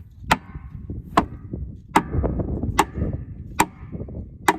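A hammer striking metal in a steady rhythm: six sharp, ringing blows a bit under a second apart.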